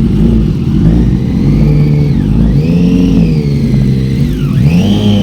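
Motorcycle engine revved three times, the pitch climbing, holding and dropping back with each rev.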